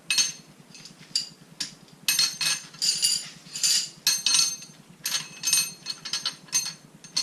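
Steel engine bolts clinking and clattering against each other and on metal as they are picked up and sorted by hand: a string of sharp, ringing metallic clinks in irregular clusters.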